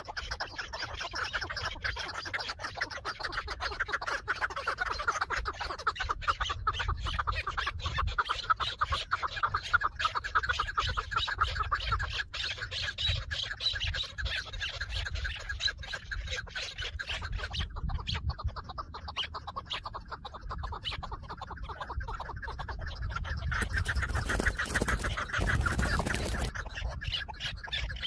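Chukar partridges calling in a continuous run of rapid clucking notes. A loud rustling burst breaks in near the end.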